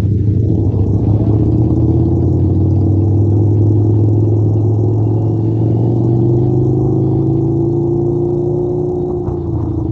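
Harley-Davidson V-twin motorcycle engine running under steady load on the road, its pitch climbing slowly and then easing off near the end.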